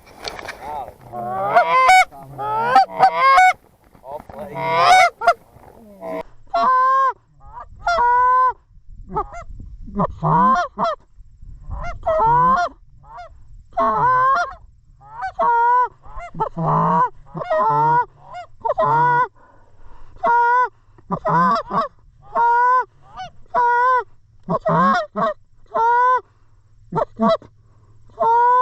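Geese honking: a burst of overlapping honks, then a steady run of short two-note honks about once a second.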